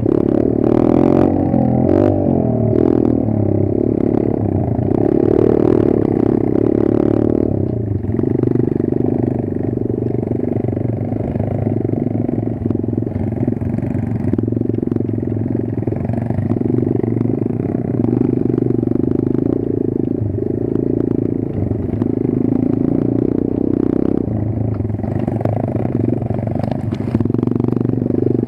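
Kayo 140 pit bike's single-cylinder four-stroke engine running steadily under way, its note rising and falling a little, with knocks and clatter over the first seven seconds or so.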